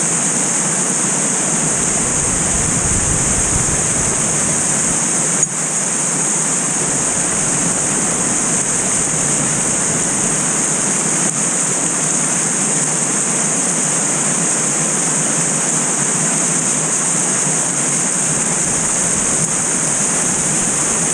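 Steady, loud rushing of a waterfall, an even hiss of falling water, with one brief click about five seconds in.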